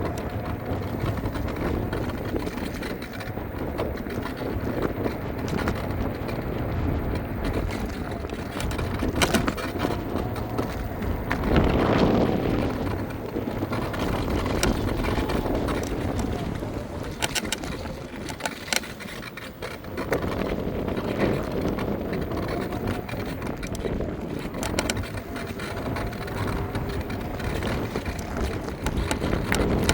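Ride noise from an electric scooter: wind on the microphone and the rumble of the tyres on the ground, with a few sharp rattling clicks in the middle.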